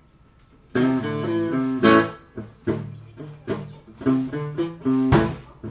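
Electric guitar starting a song live, strumming rhythmic chords from about a second in, with a sharp hit near the end.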